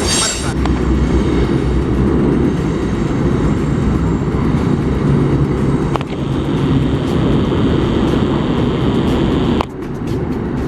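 Loud, steady low rumble of a passing train, broken by abrupt cuts about six seconds and nine and a half seconds in.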